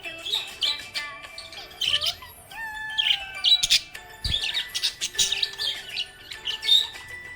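Budgerigar chirping and warbling: a fast, busy run of high chirps and short twittering glides.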